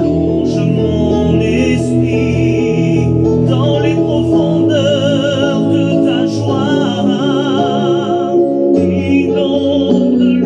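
A solo voice singing a French Christian hymn (cantique) with strong vibrato, over a continuous instrumental accompaniment.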